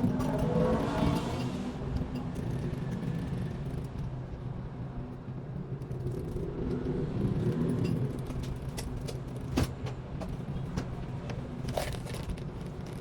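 A low steady motor hum, its pitch falling over the first two seconds, with scattered light clicks and taps; the sharpest tap comes about two-thirds of the way in.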